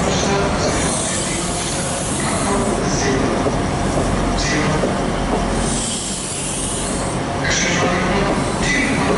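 Great Western Railway High Speed Train (InterCity 125) coaches rolling past along the platform, with a steady rumble of wheels on rail and short bursts of high wheel squeal several times.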